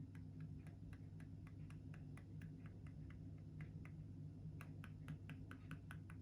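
Quick rhythmic strokes of an art tool on smooth hot-pressed watercolour paper, about four or five a second, getting louder and quicker about four and a half seconds in. A steady low hum runs underneath.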